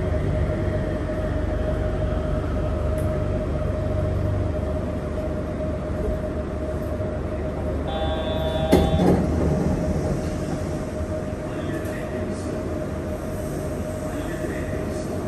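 Cabin running noise of a Yurikamome rubber-tyred automated guideway train: a steady whine over a low rumble, with the rumble dropping away about four seconds in as the train slows. About eight seconds in comes a short tone with a sharp click, the loudest moment.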